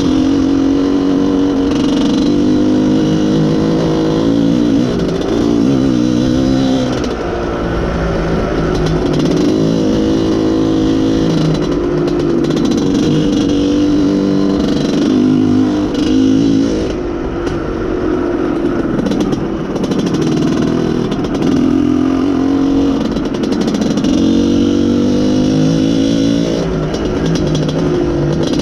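IZh Planeta Sport's single-cylinder two-stroke engine running under way, its pitch rising and falling again and again as the revs change. The rider finds it has no top end and is misfiring, which he puts down to a lean mixture.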